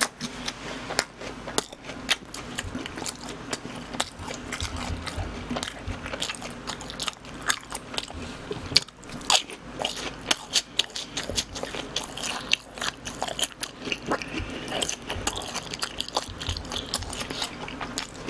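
Close-miked chewing of BHC cheese balls, deep-fried rice-dough balls with a soft cream-cheese-like filling: a dense, irregular run of crisp crunches and wet mouth clicks.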